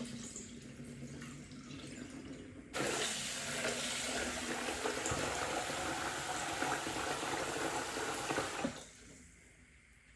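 Water running from a tap, gushing strongly from about three seconds in and shut off about two seconds before the end.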